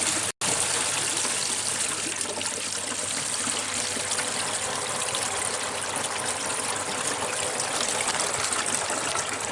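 Washing machine drain water running and trickling steadily through the waste pipe, leaking at one of the drain connections. The sound drops out for an instant about half a second in.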